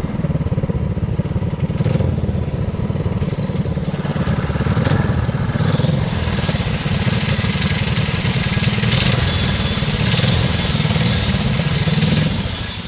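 The dual-engine go-kart's two small gas engines running steadily under way as the kart is driven.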